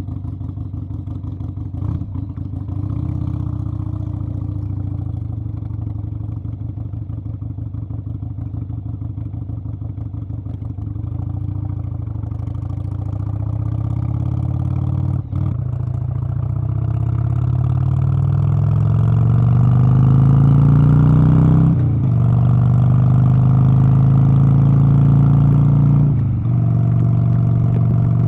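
An engine running, its pitch climbing steadily for several seconds midway, then holding at a higher, louder note with two brief dips.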